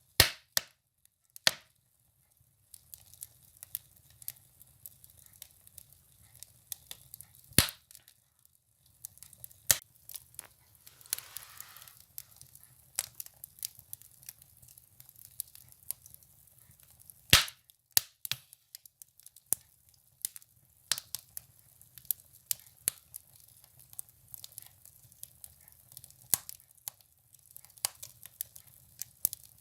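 Firewood burning in a wood stove, crackling with irregular sharp pops, a few of them loud. A brief hiss comes about eleven seconds in.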